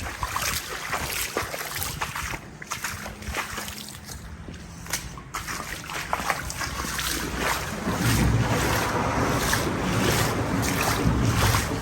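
Wind buffeting the microphone, getting heavier about eight seconds in, over scattered splashing of feet wading through floodwater.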